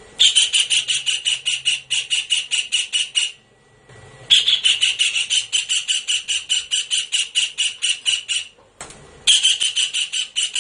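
Kingfisher calling in a fast run of sharp, evenly repeated notes, about seven a second, in three bouts with short pauses between them.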